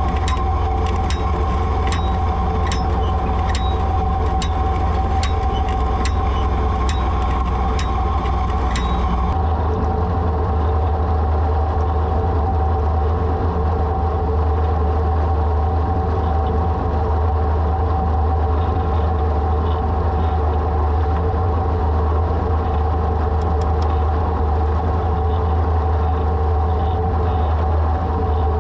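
Ford 3000 tractor engine running steadily while pulling a one-row planter. Regular clicking about twice a second runs over the engine for roughly the first nine seconds, then stops.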